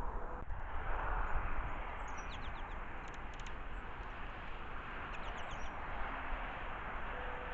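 Wild birds giving short, high chirps in two brief clusters, about two seconds in and again about five seconds in, over a steady outdoor hiss and low rumble.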